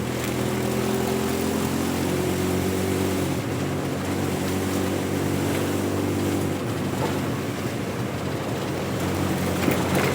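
Motor vehicle engine running steadily while driving along a road, with tyre and road noise; the engine note shifts slightly a couple of times, and a few light knocks come near the end.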